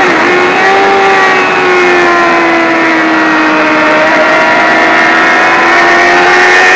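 Sport motorcycle engine running at high revs, heard close up from a camera on the bike itself, with rushing wind. The engine note dips briefly just after the start, then sags slowly while the bike leans through a long corner and builds again near the end.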